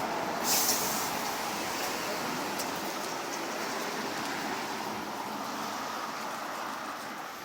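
Road traffic noise: a steady rush of a vehicle passing and slowly fading away, with a short hiss about half a second in.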